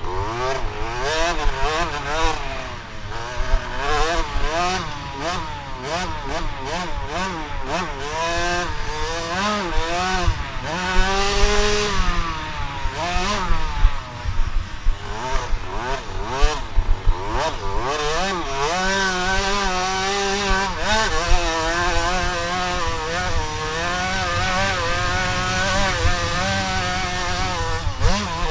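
Motocross bike engines revving: the pitch climbs and falls over and over as the throttle is opened and closed and gears change, steadier for a few seconds near the end.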